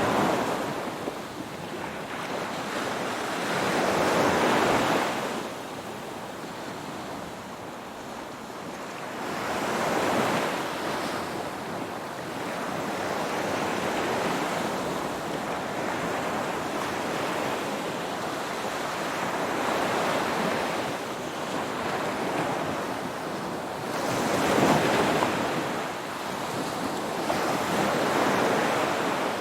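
Ocean waves breaking and washing on the shore, the surf swelling and falling back every few seconds, with a steady hiss between the larger breakers.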